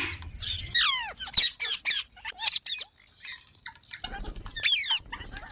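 Ringneck parakeet giving a run of short, sharp chirps and squeaks, several sliding down in pitch, with a pause of about a second midway.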